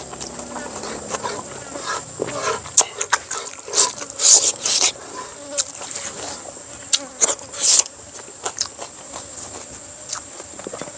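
A person chewing and lip-smacking close to the microphone, in irregular wet smacks and clicks that come thickest about four and seven seconds in. A steady high-pitched whine sits behind it.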